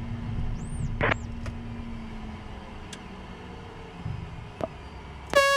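Low steady hum in a parked business jet's cockpit, with a faint tone sliding slowly down in pitch. Near the end a loud horn-like tone starts suddenly.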